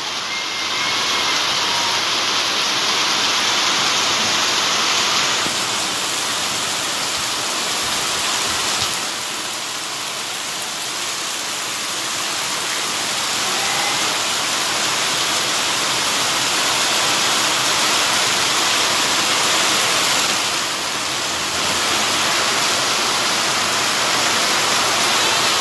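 Heavy rain pouring onto a flooded street, a steady dense hiss that eases slightly about ten seconds in and again near twenty-one seconds.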